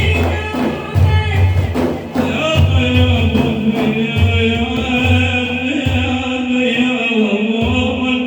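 A man singing a madih, a religious praise song, in long held, ornamented lines, over a low drum beating heavy strokes about once a second.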